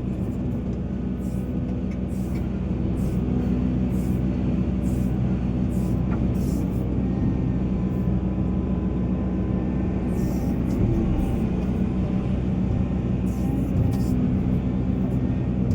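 Diesel engine of a Volvo EC480 excavator running steadily under load, with brief high hisses now and then.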